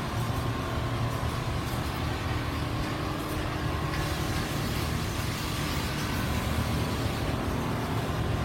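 Many Richpeace single-head computerized quilting machines running together in a workshop, a steady mechanical hum.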